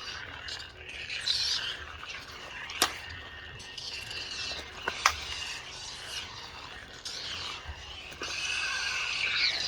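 Lightsaber sound font playing from a saber being swung: a steady hum under repeated swing sounds that waver up and down in pitch, with two sharp clash hits about three and five seconds in.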